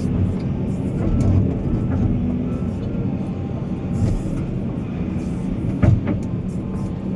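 Heavy diesel earthmoving machinery running with a steady low rumble, with scattered clanks and one sharp knock about six seconds in.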